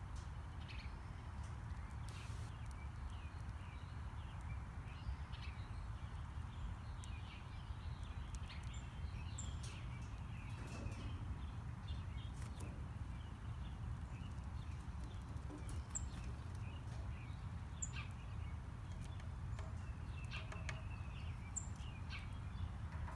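Small birds calling in short, scattered chirps and ticks over a steady low rumble.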